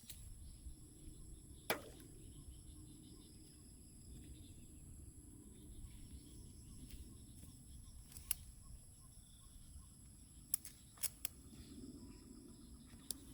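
Faint outdoor ambience: a low, even rumble with a handful of sharp snaps or clicks, one about two seconds in and a quick cluster of three near the end.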